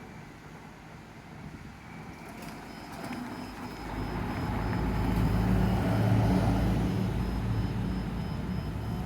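Kumamoto Electric Railway 01 series electric train approaching and passing a level crossing. Its rumble builds from about three seconds in and is loudest near the middle, with a low hum and a thin steady high tone over it.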